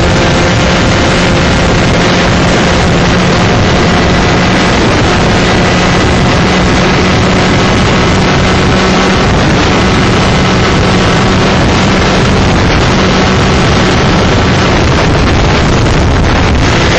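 125cc two-stroke shifter kart engine running hard at high revs, heard onboard with heavy wind noise buffeting the microphone. Its pitch holds fairly steady for long stretches and shifts near the end.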